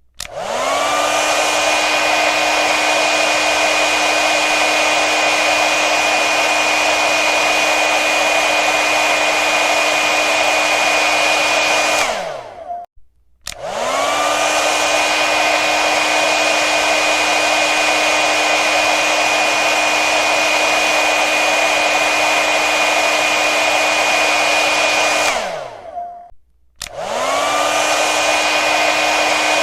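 Hair dryer running with a steady rush of air and a steady motor whine. Twice it is switched off: the whine falls away and the noise cuts out for about a second, then it comes back on with the motor spinning back up to speed.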